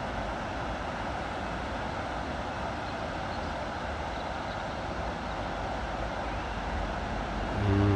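Steady low rushing outdoor background noise with no clear events, then a short low hum-like voiced sound near the end.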